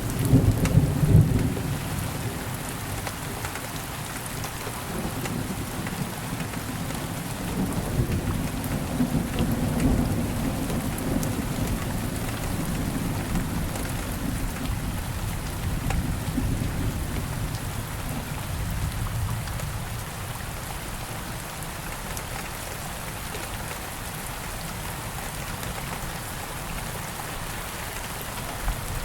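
Steady rain falling, with a loud clap of thunder right at the start. The thunder keeps rolling and rumbling more quietly and dies away after about twenty seconds.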